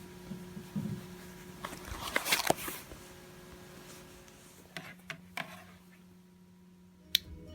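Quiet room tone with a faint steady hum, broken by a brief patch of rustling and clicking handling noise about two seconds in and a few single light clicks later on.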